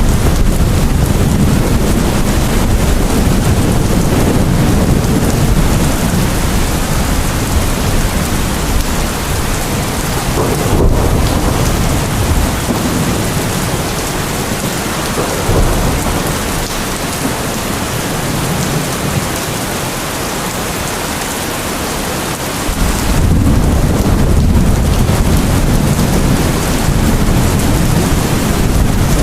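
Heavy, steady rain with a low rolling rumble of thunder beneath it. The rumble eases for several seconds past the middle and swells again about three quarters of the way through.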